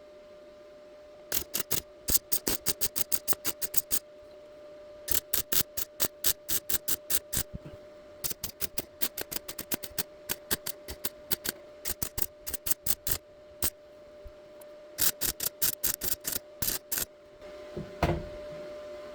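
Welder stitch-welding a new heavy-gauge steel patch into a rusted car footwell. It fires in short zaps, about five a second, in runs of a few seconds with brief pauses, over a steady hum.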